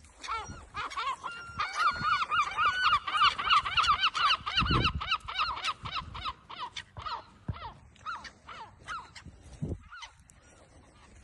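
A flock of pond waterfowl calling in a fast run of short, honking calls, several a second, thinning out toward the end, with a low thud about halfway through.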